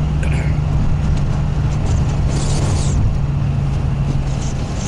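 Toyota Supra Mk3's straight-six engine droning steadily at cruise, heard from inside the cabin over road and wind noise.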